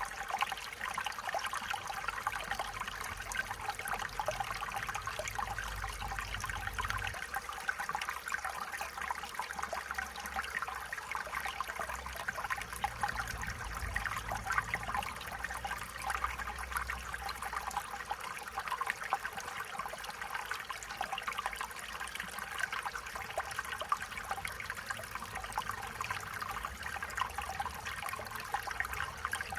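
Stream water flowing and trickling steadily over stones, with a constant babbling splash and a faint low rumble that comes and goes.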